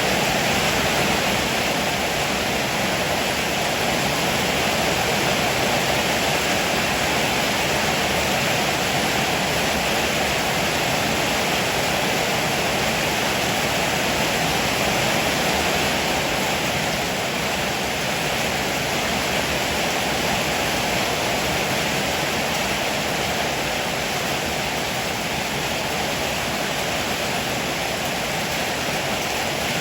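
Heavy rain pouring steadily, a dense even hiss with no thunderclaps.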